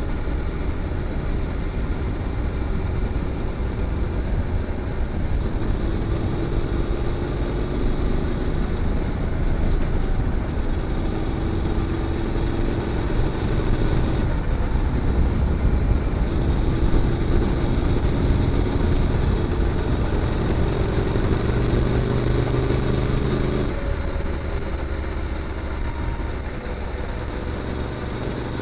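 Honda NC750X's parallel-twin engine running through a GPR aftermarket muffler while the bike is ridden: the exhaust note climbs as it accelerates and drops away twice, about halfway through and again near the end.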